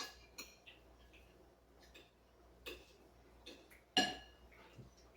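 Spoons clinking against dishes as people eat: a few scattered light clinks with a brief ring, the loudest about four seconds in.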